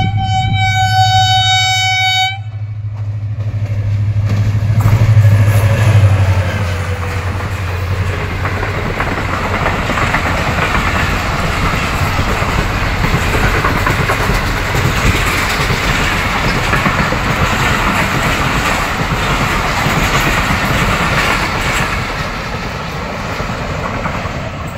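Pakistan Railways diesel locomotive HGMU 8206 sounding a single-tone horn, which stops about two seconds in, as it comes through the station. Its engine grows loud as it passes, then the coaches of the passenger express roll by on the rails in a steady rumble and rattle until near the end.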